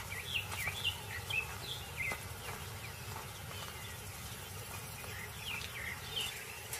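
Birds chirping: many short, falling chirps dotted through, over a steady outdoor hiss.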